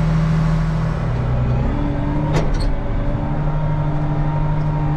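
Combine harvester running steadily with a steady hum and held whine; the pitch of the whine shifts up a little less than two seconds in. A single sharp click comes about halfway through.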